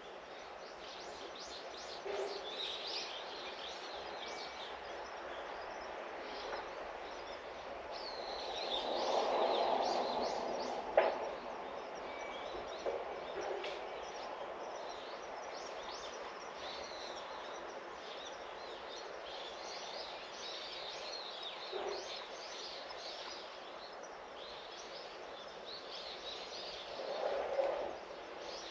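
Small birds chirping and twittering over steady outdoor background noise, with a broader swell of noise about a third of the way in and again near the end, and one sharp click.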